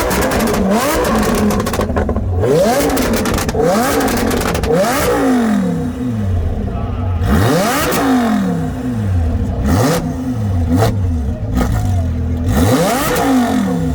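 A performance car engine revved again and again, each rev climbing quickly and falling back, with some sharp cracks mixed in.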